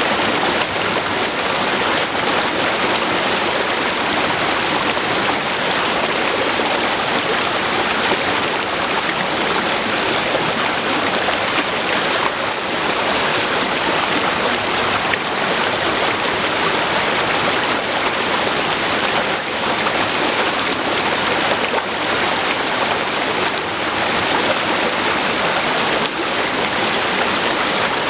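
River water flowing over rocks, a steady rushing and splashing with no breaks.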